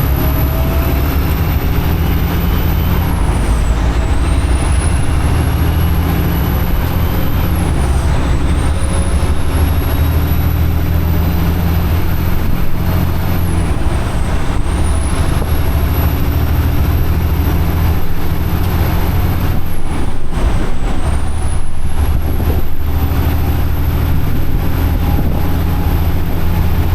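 Semi-truck diesel engine running steadily under way, heard from inside the cab, with a thin high whistle that dips briefly in pitch four times.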